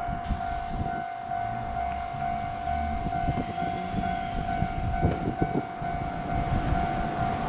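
A train running, with a low rumble and a few knocks about five seconds in, under a steady high-pitched tone that pulses faintly.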